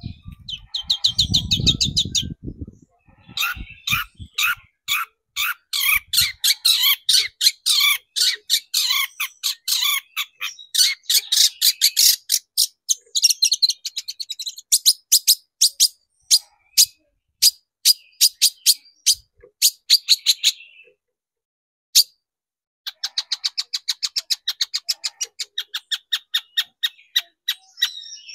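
Long-tailed shrike singing a fast run of short, sharp repeated notes, several a second, pausing briefly about three-quarters of the way through before starting again. A low rumble sits under the first couple of seconds.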